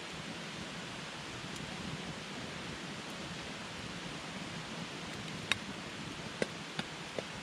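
Wood campfire burning with a steady hiss, and four sharp crackles from the burning wood, the loudest about five and a half seconds in and the rest in quick succession near the end.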